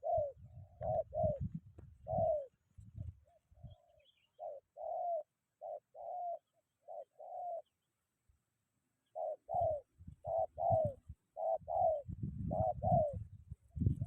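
Spotted dove (tekukur) cooing: three phrases of short, repeated coo notes with a pause between them. Low rumbling bursts run under the first and last phrases.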